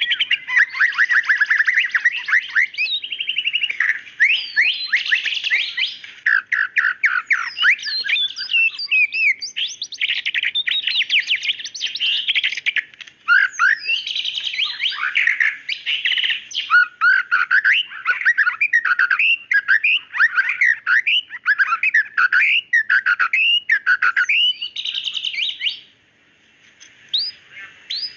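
White-rumped shama singing a fast, nearly unbroken run of varied whistles, sweeping notes and sharp chirps, falling quiet for about two seconds near the end before starting again.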